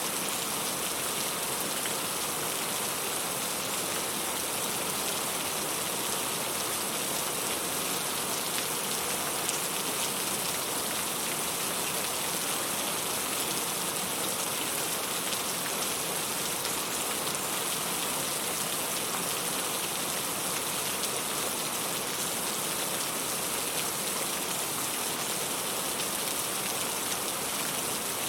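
Steady rain falling: an even, unbroken hiss, strongest in the high range.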